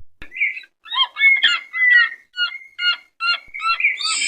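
Bird calling: a run of short, chirping, sliding notes about half a second apart, with one longer note a little under two seconds in and a busier flurry near the end.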